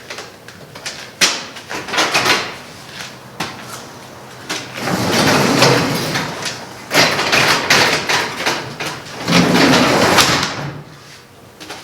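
A newly installed door being moved and worked: scattered knocks and clatter, then three longer stretches of rattling and scraping, about five, seven and nine seconds in.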